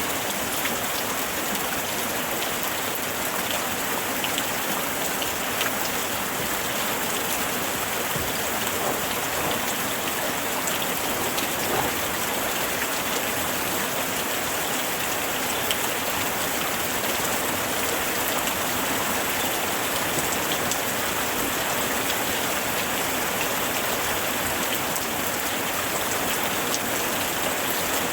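Heavy rain falling steadily, an even dense hiss scattered with the sharp ticks of individual drops striking a surface.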